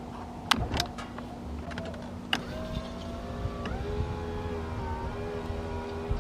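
A Jeep's power window motors running as the windows are lowered: a few switch clicks, then one motor whine climbing in pitch, then a second, lower whine holding steady from a little past halfway, over the engine idling.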